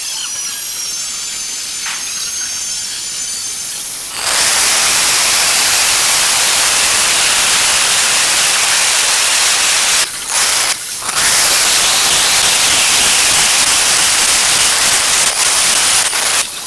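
Angle grinder spinning freely with a high whine, then cutting into tile from about four seconds in: a loud, steady hiss of the disc grinding through, interrupted twice briefly around the ten-second mark and stopping just before the end.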